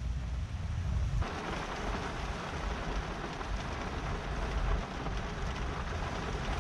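Heavy rain falling, with a low wind rumble on the microphone; the rain's hiss comes in suddenly about a second in.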